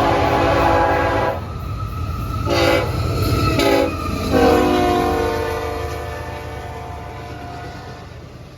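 CSX freight locomotive's air horn sounding a chord: a long blast, two short blasts, then a long blast that fades away. A low train rumble runs under the first half.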